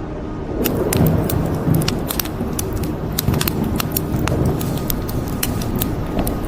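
Wood fire crackling, with sharp pops several times a second over a steady hiss and a low rumble that swells about half a second in.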